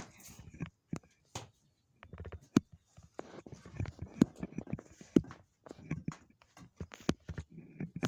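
Handling noise: a string of irregular knocks, clicks and taps, sparse at first and denser from about two seconds in.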